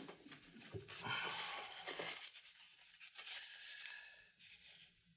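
Paper tissue rustling and tearing: a soft papery noise for about three seconds, fading out about four and a half seconds in.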